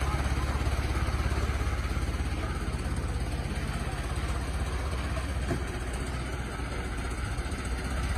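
Antique car engine idling, a steady low pulsing run.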